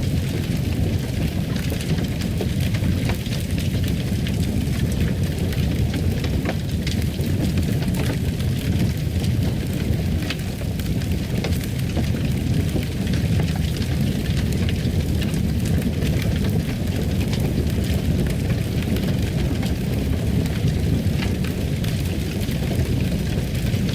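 Wood fire crackling in a fireplace: a steady low rumble of the flames with frequent small, irregular pops and snaps.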